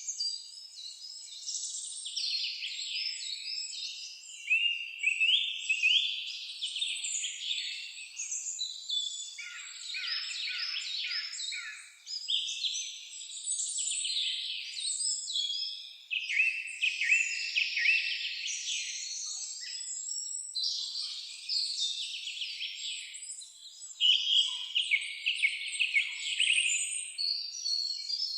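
Several songbirds singing at once, an unbroken overlapping chorus of rapid trills and chirped phrases, each phrase lasting a second or two.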